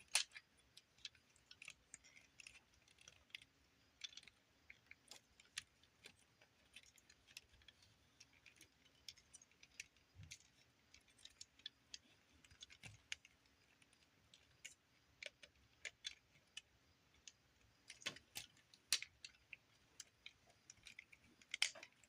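Light, irregular clicks and taps of plastic action-figure parts being handled and repositioned, with a few louder clicks near the end.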